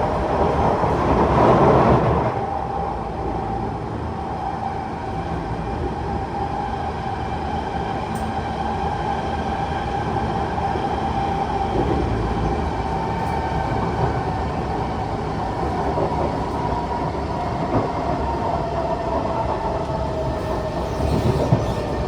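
Kawasaki C151 metro train running between stations: a continuous rail rumble with a steady motor whine, louder for the first couple of seconds, and a whine that slowly falls in pitch in the second half.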